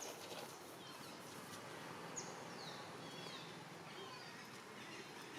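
Steady faint outdoor background noise, with a few short, high chirps falling quickly in pitch about halfway through.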